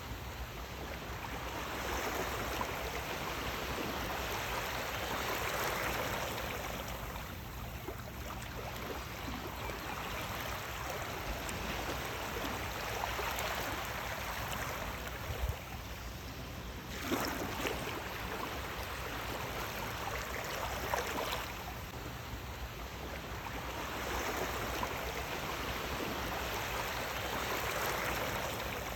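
Sea waves washing in and drawing back, the rush of water swelling and fading every few seconds.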